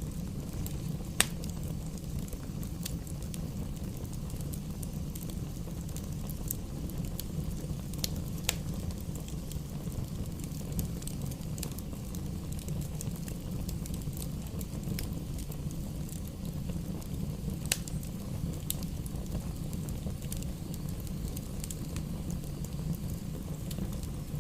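A fire burning in a fireplace: a steady low rumble with scattered crackles, and a few sharper pops about a second in, about 8 seconds in and about 17 seconds in.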